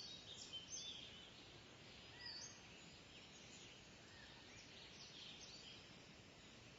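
Kingfisher giving short, high-pitched calls and chirps, scattered and faint, over a low outdoor hiss.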